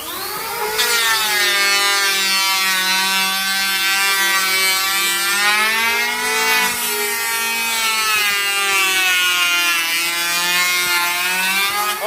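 Electric woodworking power tool spinning up, its motor whine rising over the first second, then cutting into a wooden board with a loud rushing noise over a steady, slightly wavering whine.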